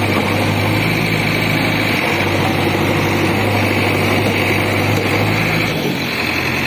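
Diesel engine of a JCB 3DX backhoe loader running steadily, with a high whine over the engine note. About six seconds in, the low engine hum drops and the sound changes.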